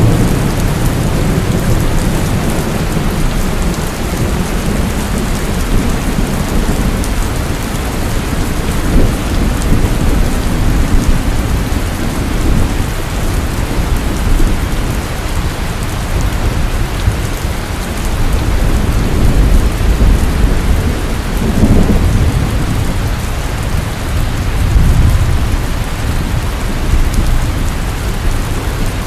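Heavy rain pouring steadily, with low rolls of thunder that swell and fade several times.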